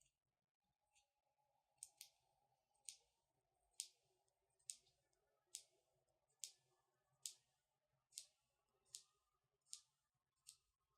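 Long natural fingernails clicking, a steady series of quiet, sharp taps a little more than one a second.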